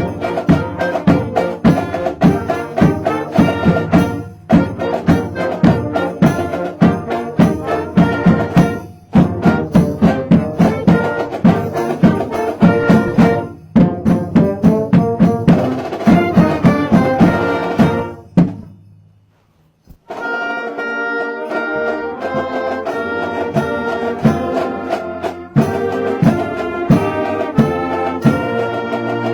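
A high school band's brass and drums playing a Christmas carol in phrases with short breaks between them. The band stops about 18 seconds in and starts again about a second and a half later.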